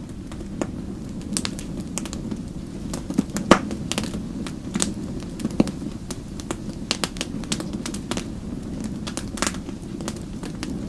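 Wood fire crackling: irregular sharp pops and snaps, the loudest about three and a half seconds in, over a steady low rush of burning flames.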